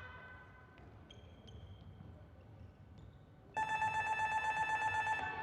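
Electronic match buzzer at a volleyball arena, sounding a rapid pulsing electronic tone for about a second and a half, starting about three and a half seconds in. A fainter steady tone fades out in the first second or so.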